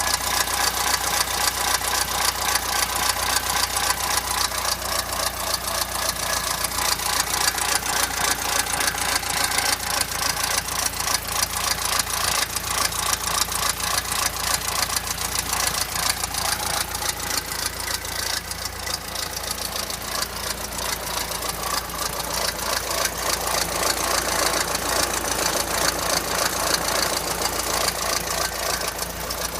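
Volkswagen Golf Mk5 GTI's 2.0 TFSI turbo four-cylinder (AXX) idling with a fast, steady clatter: the rattle at idle that the car is known for.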